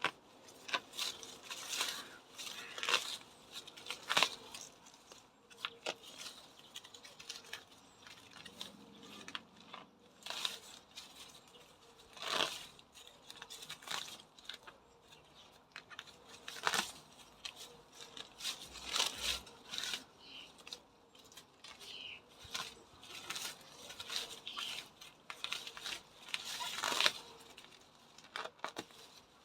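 Irregular rustling, crackling and tearing of leaves and stems being handled during garden work, in uneven short bursts with no steady rhythm.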